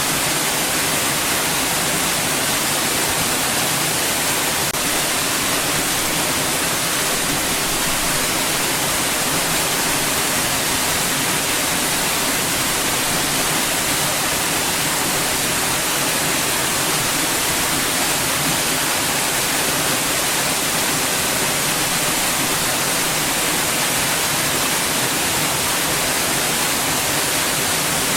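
Steady hiss of noise spread evenly from low to very high pitches, unchanging throughout.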